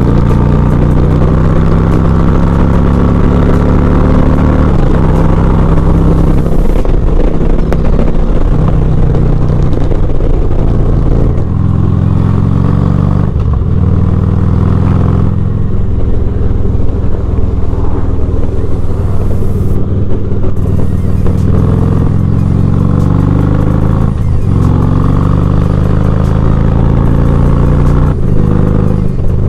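Motorcycle engine under way, revving up through the gears again and again: the pitch climbs, drops at each shift, then climbs again, with a few longer dips as the throttle is rolled off.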